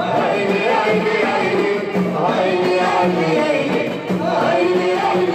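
Live music with several voices singing together, as in a choir.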